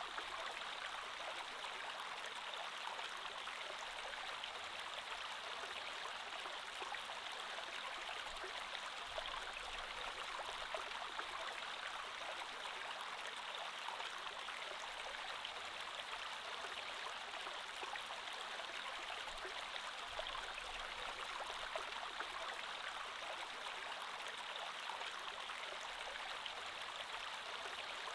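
Creek water flowing steadily over stones, an even rushing babble with fine splashing detail.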